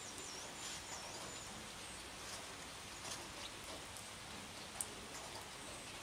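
Steady light rain, with a soft hiss and scattered drop ticks. A bird gives a high, wavering call in the first second and a half, and there is a single sharp tick about five seconds in.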